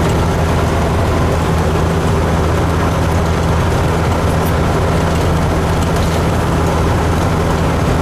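Kenworth truck's diesel engine droning steadily, heard from inside the cab with a deep, even hum.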